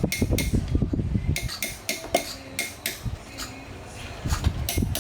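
Hard metal objects clinking and clattering: a string of sharp knocks and clinks, busier at the start and again near the end.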